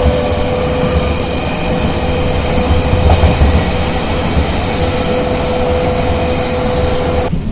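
Stockholm narrow-gauge electric train running, with a steady whine over a low rumble. The sound cuts off abruptly shortly before the end.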